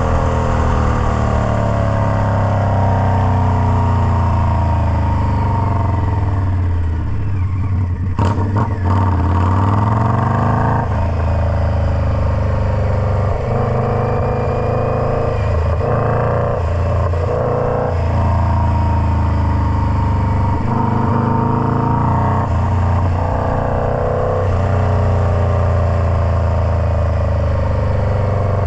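Indian Scout Bobber's V-twin engine through a Freedom Performance Combat 2-into-1 exhaust, its pitch rising and falling again and again as the revs climb and drop, with a deep dip and climb back about eight seconds in.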